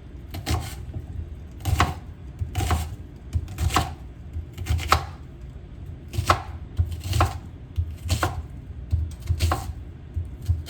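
Knife chopping food on a cutting board: slow, steady chops about one a second.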